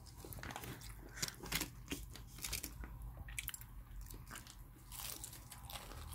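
Crispy boneless fried chicken being bitten and chewed: a run of soft, irregular crunches.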